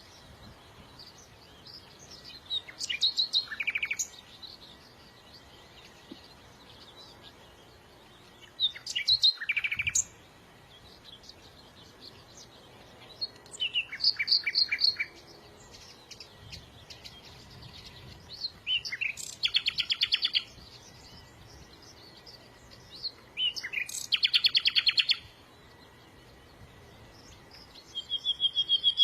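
A small songbird singing short phrases, each a quick run of notes ending in a fast trill, repeated about every five seconds. There are five phrases, with a sixth starting near the end.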